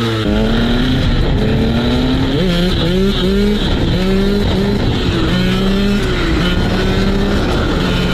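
KTM SX 125's single-cylinder two-stroke engine running at high revs under riding, its pitch holding and then rising and falling with the throttle every second or so.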